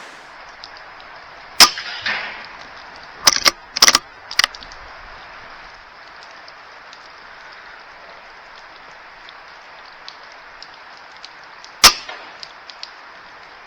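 Air rifle firing: a sharp shot with a short ringing tail, a quick run of clicks and knocks a couple of seconds later, then a second sharp shot near the end.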